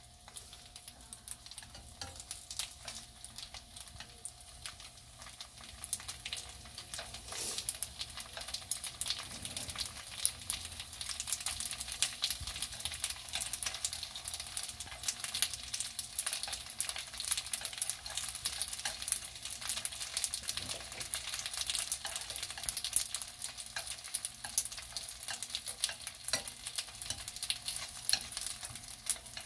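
Dumplings pan-frying in a nonstick frying pan, sizzling with a dense crackle of spitting oil. The crackle grows busier after the first several seconds and keeps up steadily.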